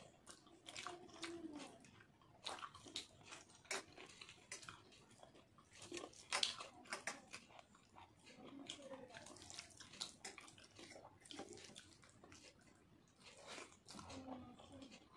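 Close-up eating sounds: chewing and many short, wet mouth clicks and smacks from a mouthful of rice and moong dal. Soft wet squishing of the dal-soaked rice being mixed by hand on a steel plate.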